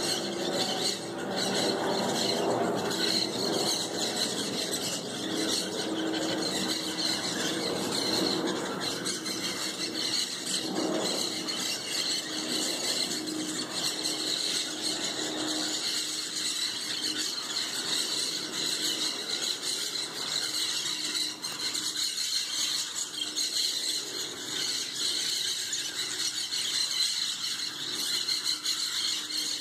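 A flock of parrots squawking and screeching together in a tree, a dense and unbroken chorus of many overlapping calls.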